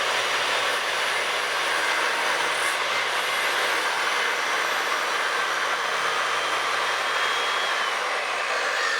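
Handheld circular saw running steadily at full speed, cutting into a wooden rafter board.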